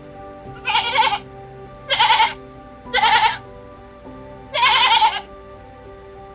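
An animal bleating four times, each call about half a second long with a wavering quiver, over soft background music.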